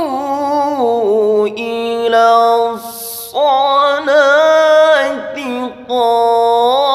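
A solo voice chanting Quran recitation in the melodic tajwid style, drawing single syllables out into long, ornamented held notes that waver and slide in pitch. There is a short breathy break about three seconds in.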